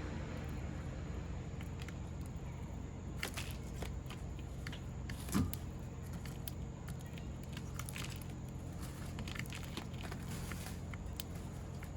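Scattered light taps and clicks of sparrows pecking and hopping on a wooden feeder, with one louder knock about five seconds in, over a steady low background rumble.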